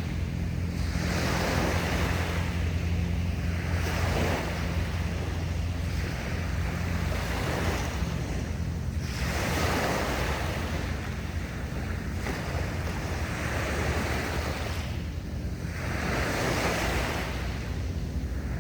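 Sea waves washing against the shore in repeating surges every few seconds, with a steady low wind rumble on the microphone.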